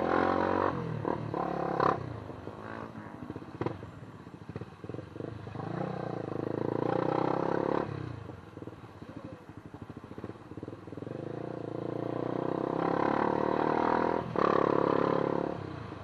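Motorcycle engine running on the move, rising in level three times as it is revved up and easing off in between.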